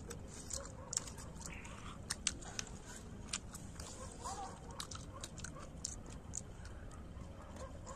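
People eating with their hands close to the microphone: chewing, with many irregular sharp mouth clicks and smacks.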